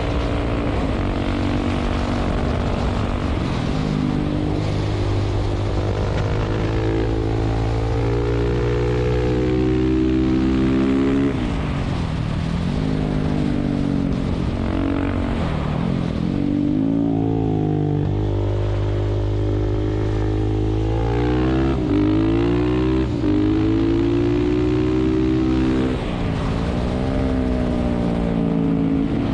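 KTM 690 SMC's single-cylinder engine under way, its pitch rising and falling with the throttle. It drops sharply and climbs again about four times, over steady wind noise.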